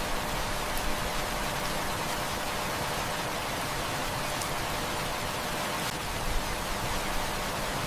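Heavy rain falling steadily as a dense, even hiss, with a few faint sharp ticks standing out from it.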